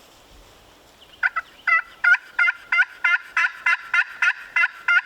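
Turkey call yelping close by: a series of about a dozen sharp, evenly spaced notes, roughly three a second, starting about a second in and running on. It is a hunter's call sent out to strike up a gobbler.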